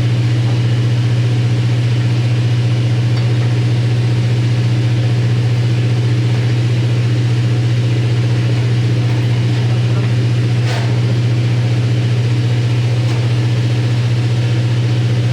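Steady, loud low drone of running heavy machinery, unchanging throughout. A single short sharp click about two-thirds of the way through, with a fainter one after it.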